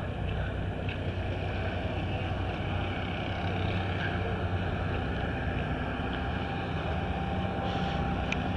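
Steady drone of an engine running, with one faint clink near the end.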